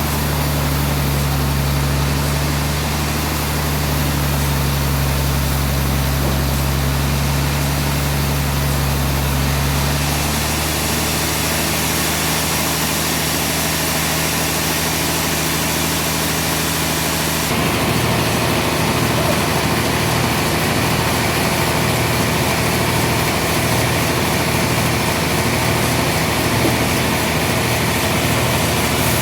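Sawmill machinery engine running steadily, with a low, even drone. Its note shifts about ten seconds in and changes again at about seventeen and a half seconds.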